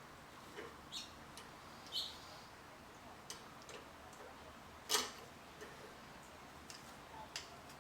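Scattered light clicks and taps from hand work on small winch hardware, irregular rather than rhythmic, with one sharper knock about five seconds in.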